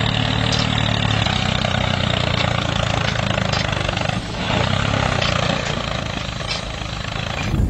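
A motor running steadily with a low hum, cutting off just before the end.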